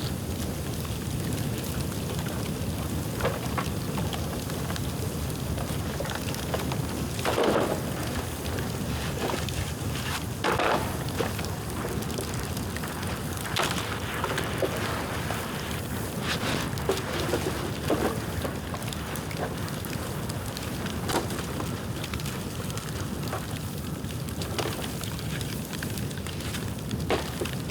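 Bonfire of dry bamboo burning: a steady low rush of flame with sharp cracks and pops scattered every few seconds.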